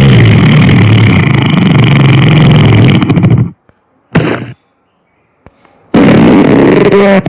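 Recorded fart sound effects from a phone fart-sound app: a long, loud, low fart with a wavering pitch lasting about four seconds, a short one a little later, then another of about a second near the end.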